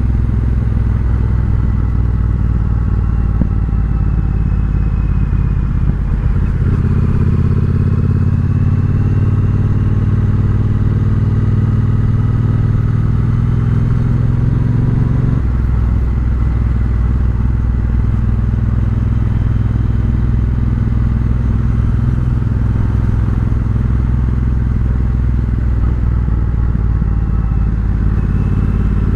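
Triumph Bobber's 1200 cc parallel-twin through a Vance & Hines exhaust, running under way as the bike is ridden. The engine note climbs about six seconds in and drops suddenly about halfway through, as with a gear change. Heard through a microphone inside the rider's helmet.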